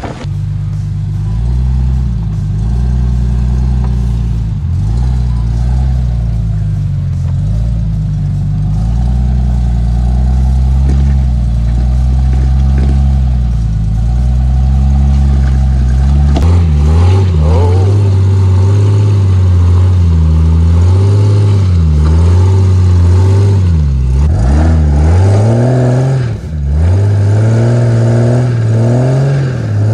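Jeep Wrangler JL engine running under load off-road. Its pitch holds and steps up and down at first, then swings up and down with repeated revving from about halfway through.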